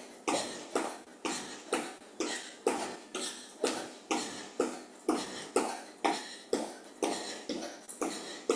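Sharp, forceful exhaled breaths, about two a second, from a person pushing hard through fast lateral high-knee hops, each breath falling in time with a hop.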